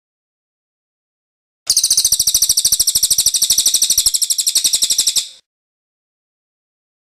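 Cililin bird's rolling song (ngerol): one rapid, evenly pulsed, high-pitched trill starting after a pause of nearly two seconds and lasting nearly four seconds before stopping abruptly.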